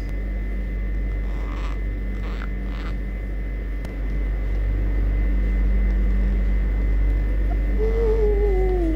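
A steady low mechanical hum with a constant whine, such as a room fan or motor. A few soft rustles come early on, and near the end there is one drawn-out falling call from the pet parrot.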